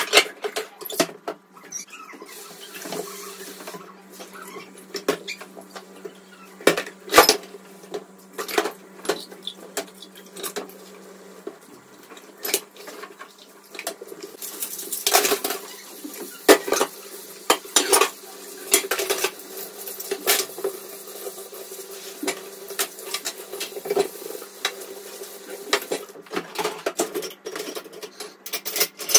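Dishes and cutlery clinking and knocking in irregular clatters, with a faint steady hum underneath.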